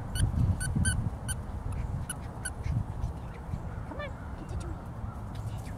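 Birds calling in the background: short honk-like calls, about six in the first two and a half seconds and a falling call about four seconds in, over a low steady rumble.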